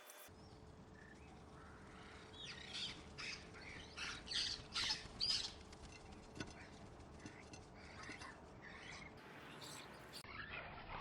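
Wild backyard birds calling: a run of short squawky chirps, loudest and densest about four to five seconds in, then scattered fainter calls.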